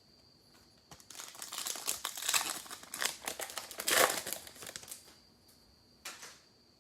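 Trading card pack wrapper crinkling and tearing as a pack is opened, a dense crackle from about a second in to five seconds, then a brief rustle about six seconds in.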